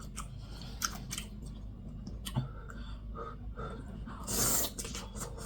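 A person chewing close to the microphone with wet lip-smacking and scattered mouth clicks, and a short airy hiss about four seconds in.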